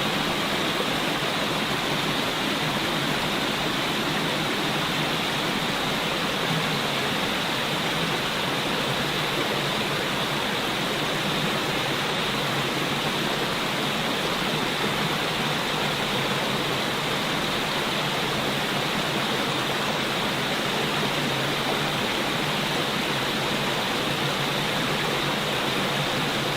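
Steady, unbroken rush of flowing water, starting abruptly and holding one level.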